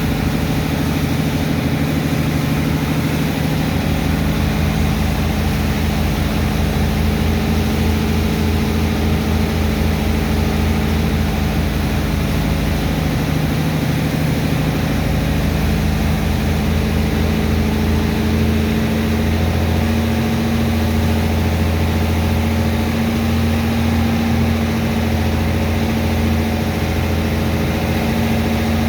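Large diesel engine of a sand dredger running steadily at a constant speed, driving the water-and-sand pump that unloads a barge.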